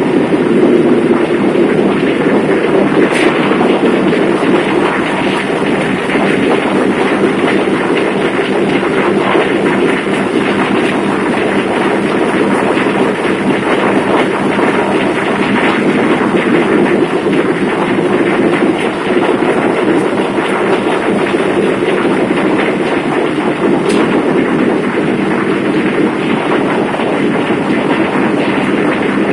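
Loud, steady drone of a passenger ferry's engine-room machinery: large marine diesel engines running, a dense even rumble with a faint steady hum beneath it.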